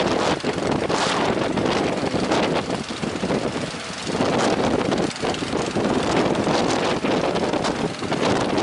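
Strong wind buffeting the microphone, a dense rushing noise that dips briefly about four seconds in.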